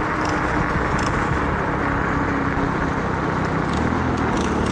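Wind buffeting a microphone worn inside a shirt, a steady dense rumble, with a faint steady motor hum underneath.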